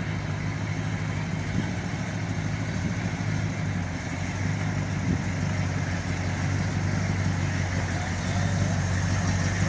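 Engine of a military 5-ton 6x6 truck idling steadily, a low even drone.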